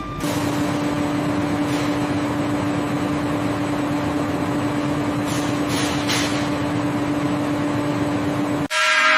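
Steady mechanical hum with a constant low tone, cutting off abruptly near the end, where a ringing, gong-like tone starts.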